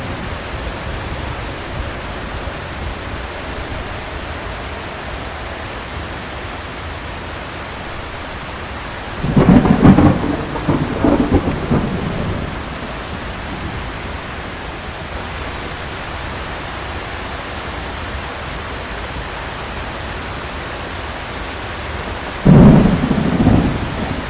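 Thunderstorm: heavy rain as a steady hiss, with two loud claps of thunder rumbling out, one about nine seconds in lasting a few seconds and another near the end.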